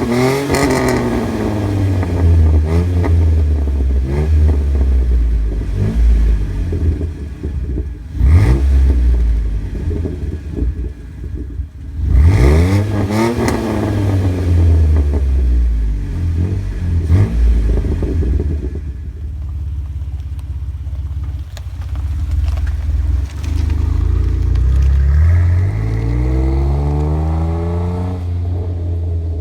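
2010 Jeep Wrangler JK's 3.8-litre V6 through a Gibson stainless split exhaust and K&N intake, revved again and again and dropping back to idle. There is a sharp blip about eight seconds in and a big rev about twelve seconds in that falls away over a few seconds, then a steadier low stretch, then a slower rise and fall near the end.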